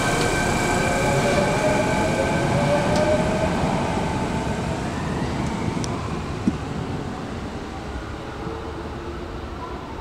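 Electric commuter train pulling out of the station. Its traction motors whine with a tone that climbs in pitch as it speeds up, while the wheel rumble fades as it moves away. A single sharp click comes about six and a half seconds in.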